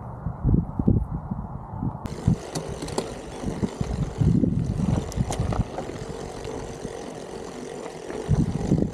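Strong wind buffeting the microphone in irregular low gusts of rumble.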